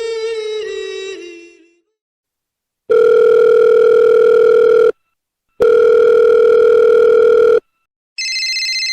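Telephone call sound effect: two long, steady ringback tones of about two seconds each with a short pause between them, then a higher, buzzing electronic phone ring starting near the end. A brass music cue fades out in the first two seconds.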